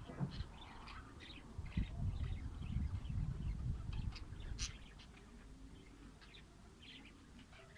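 Lovebirds chirping, with many short high-pitched chirps. About two seconds in, a louder low rumbling noise starts and runs for a couple of seconds before stopping.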